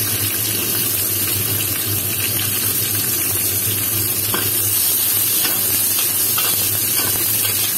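Sliced onions, ginger and garlic sizzling in hot oil in a wok, with a spatula stirring them and clicking against the pan a few times. A steady low hum runs underneath.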